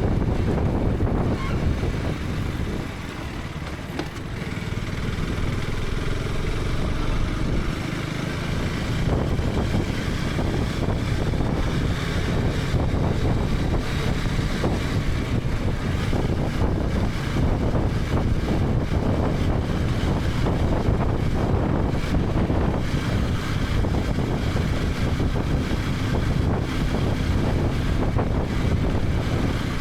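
KTM 250 Adventure's single-cylinder engine running under way, with wind rushing over the helmet-mounted microphone. The sound drops for a couple of seconds about three seconds in, then holds steady.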